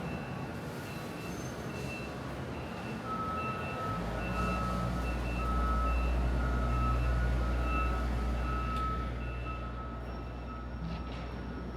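Vehicle backup alarms beeping over and over at a steady, even pace. A second, lower-pitched beeper joins about three seconds in. A low engine rumble swells up about four seconds in and eases off near the end.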